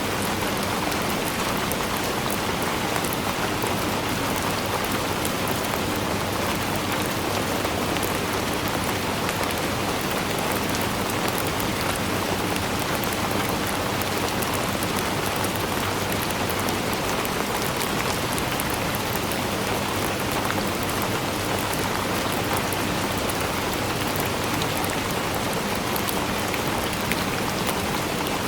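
Steady rainfall, a dense even hiss of drops with fine patter of individual drops landing on a surface.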